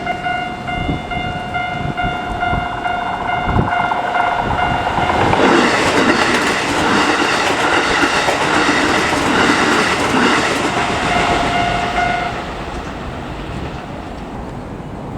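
Railway level-crossing warning bell ringing in a steady repeating pattern as a Keikyu Line electric train passes over the crossing. The train is loudest from about five to twelve seconds in, its wheels clattering over the rail joints.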